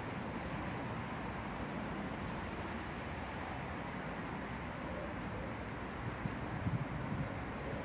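Steady outdoor background noise with a few short, faint, high bird chirps, and a brief low rumble about six seconds in.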